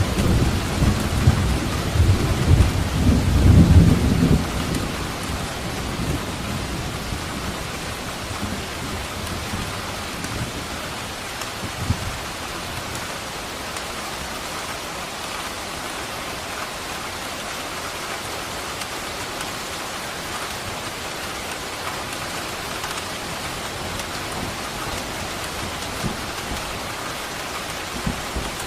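Steady rain falling in a thunderstorm, with a low roll of thunder at the start that dies away after about four seconds, leaving an even hiss of rain.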